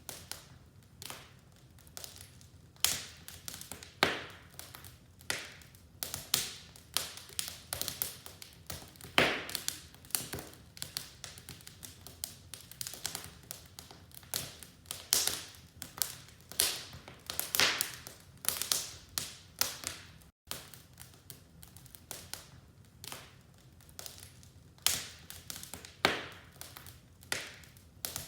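Wood fire crackling in a fireplace: irregular sharp pops and snaps, several a second, some louder than others, with a momentary dropout about twenty seconds in.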